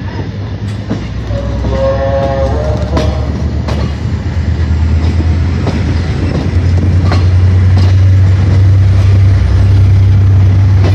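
Train heard from on board as it pulls out: wheels clicking over rail joints, a short horn blast about two seconds in, and a low rumble that grows steadily louder from about six seconds in.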